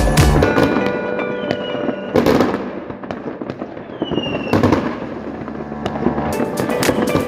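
Fireworks exploding: a bang about two seconds in, another near five seconds, then a quick run of crackling bangs near the end.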